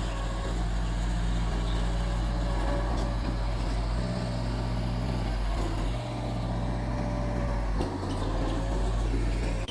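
Mitsubishi bulldozer's diesel engine running steadily under load, its note shifting a few times as the load changes.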